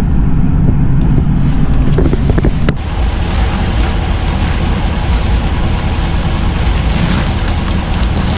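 Ram 1500 pickup's engine running at idle with a steady low rumble; a sharp click about three seconds in, after which a steady rushing hiss of air fills in over the rumble.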